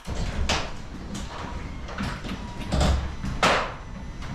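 Garage door being raised: a continuous rumble with several louder rattles.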